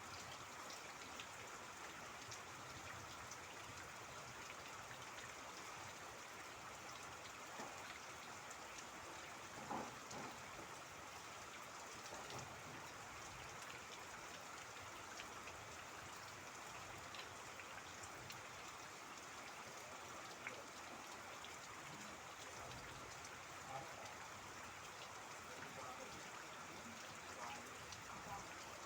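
Steady rain falling and pattering on surfaces, with water trickling, and a few louder single drops or taps standing out now and then.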